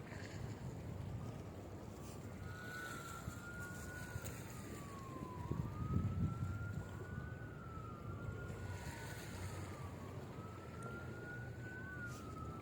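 Emergency vehicle siren wailing, a slow wail rising and falling every few seconds, with two wails overlapping, over a low rumble of background noise that swells briefly about halfway through.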